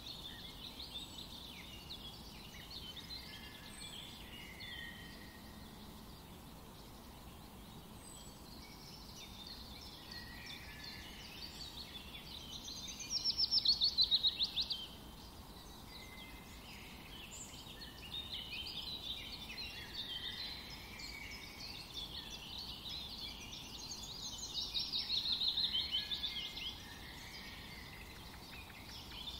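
Songbirds chirping in the background, with two louder rapid trills, one about halfway through and one near the end.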